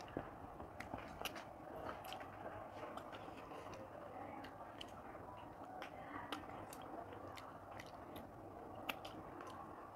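Close-miked chewing: soft, irregular mouth clicks and smacks of someone eating, with faint sounds of fingers tearing chicken off the bone on a plate.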